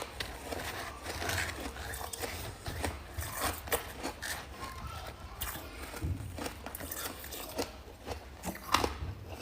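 Freezer frost chunks being bitten and chewed, a string of irregular crisp crunches and crackles, one sharper crunch near the end.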